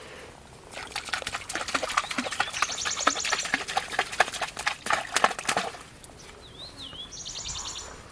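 Birds chirping in short repeated trills, with a dense run of sharp clicks and crackles from about a second in until about six seconds.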